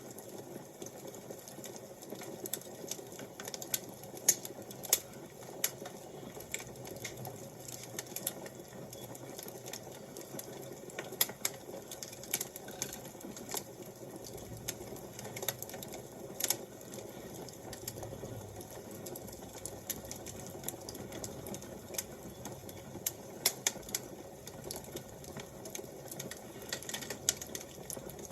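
Fire crackling: irregular sharp pops and snaps, several a second at times, over a soft steady hiss.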